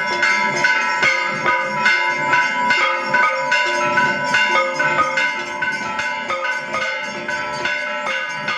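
Several temple bells struck over and over, their ringing tones at different pitches overlapping into a dense, continuous clangour.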